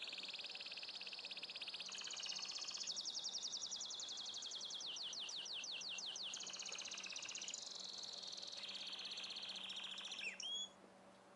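A songbird singing one long, unbroken song of fast, high trills that shift in pitch every second or two, with a run of quick falling notes in the middle. It cuts off suddenly near the end.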